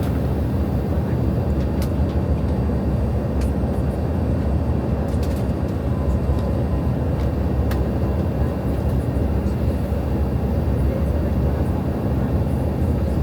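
Airbus A319 airliner giving a steady, even low rumble with no clear rise or fall in pitch.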